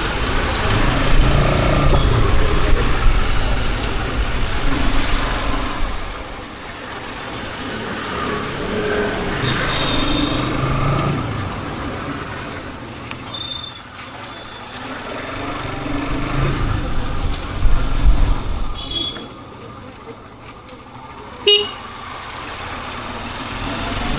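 Bajaj Pulsar NS200's single-cylinder engine through its stock exhaust, revving and pulling in several rising and falling swells, with short horn toots from traffic.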